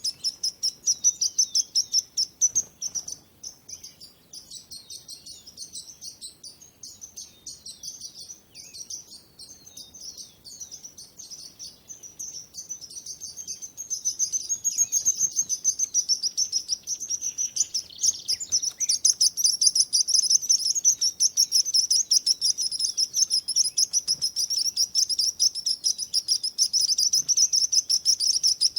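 Songbirds chirping in rapid, overlapping high-pitched notes, growing denser and louder about halfway through.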